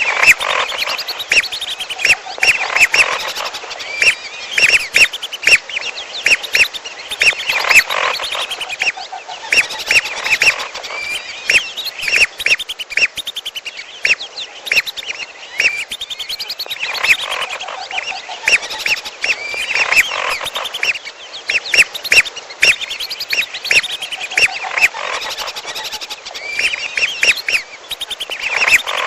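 Lure recording of belibis merah (a whistling duck) mixed with piolo bird calls. A dense flock chorus of short, high whistled calls comes in repeated waves every couple of seconds.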